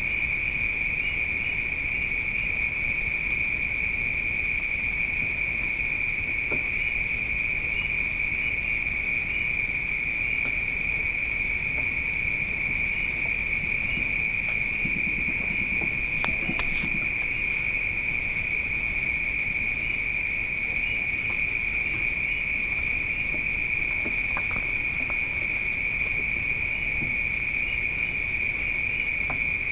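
A chorus of night crickets trilling steadily and high-pitched, without a break.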